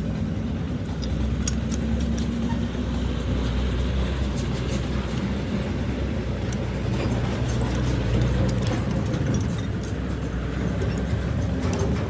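Machinery running with a steady low drone, with scattered light clicks over it.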